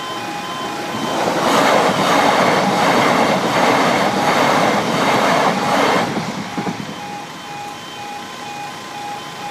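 A train passing the crossing: a loud rush of wheel and rail noise swells about a second in and fades away about six seconds in. Under it, the crossing's electronic warning alarm keeps beeping, about three beeps a second.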